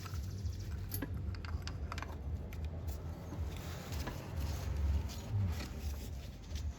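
Irregular small clicks and taps of metal parts being handled and fitted as the oil filter cover goes back onto a Yamaha YFZ 450 ATV engine, over a low steady rumble.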